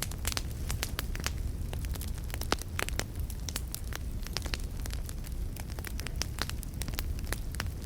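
Campfire crackling: frequent sharp, irregular pops and snaps over a steady low rumble of burning.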